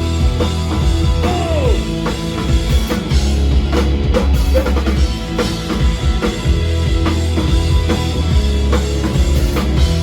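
Live rock band playing an instrumental stretch between sung lines, with the drum kit and bass drum prominent under a full band.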